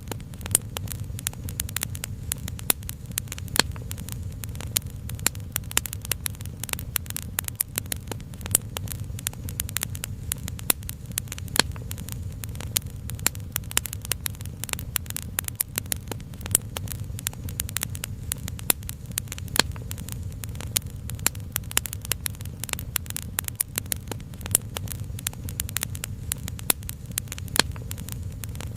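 Wood fire crackling, with frequent sharp irregular pops over a low steady rumble.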